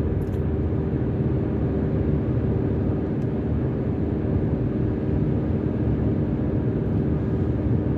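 Steady road noise of a car driving along a highway, heard from inside: tyres and engine drone without a break.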